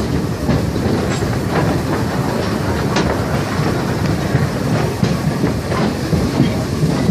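Heritage railway train rolling along the track: a steady rumble with irregular clicks and clacks as the wheels pass over rail joints.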